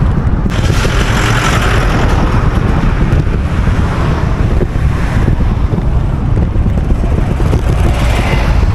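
Wind buffeting the microphone of a moving bicycle rider: a steady heavy low rumble with a rushing hiss of air that swells about half a second in and again near the end.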